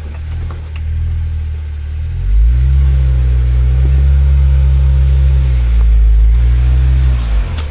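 Off-road 4WD engine revving while rock crawling: the revs climb about two seconds in and hold, dip briefly around six seconds, then fall away near the end.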